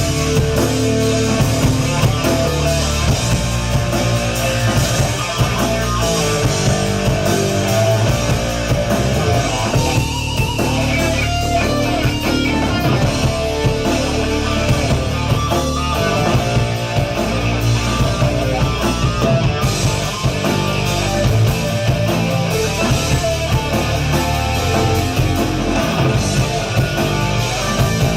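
Live rock band playing an instrumental passage: electric guitar and drum kit over a heavy low end, loud and steady, with no singing.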